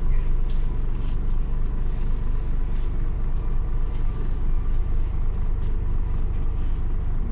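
Scania OmniLink CL94UB city bus running, a steady low rumble of engine and road noise with a few faint ticks.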